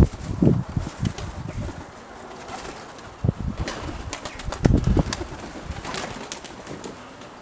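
Nikolaev pigeons' wings flapping, with gusty wind buffeting the microphone in low rumbles about half a second in and again near five seconds.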